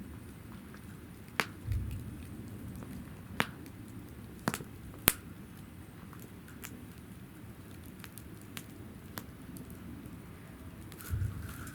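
Wood fire burning in a fire-pit stand: a steady low rush of flame with sharp crackling pops of burning wood, about seven snaps, the loudest about halfway through. Two brief low thuds, one about two seconds in and one near the end.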